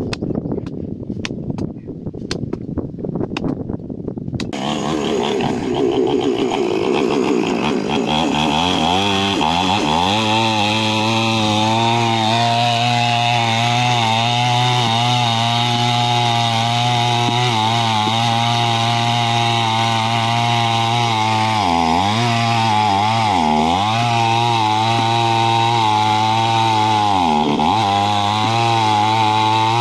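Chainsaw engine running steadily after a few knocks at the start. Its pitch dips briefly several times in the second half.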